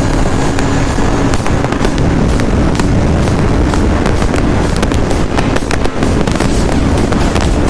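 Sportbike engine running hard at high revs, with a rapid string of sharp cracks and pops from the exhaust.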